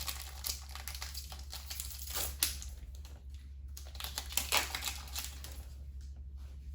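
Trading cards being handled and flicked through, a quick irregular run of light clicks and rustles of card on card, over a steady low hum.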